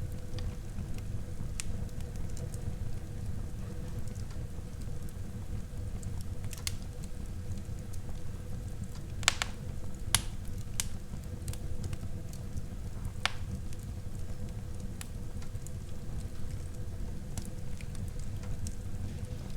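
Wood fire burning in a fireplace: a steady low rumble with scattered crackles and sharp pops, the loudest pops about nine, ten and thirteen seconds in.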